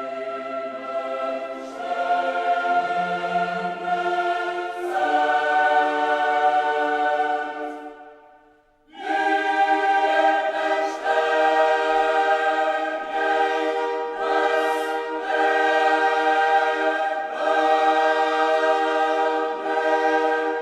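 Background music: a choir singing slow, sustained chords, fading out briefly about eight seconds in and then coming back with a fuller held chord.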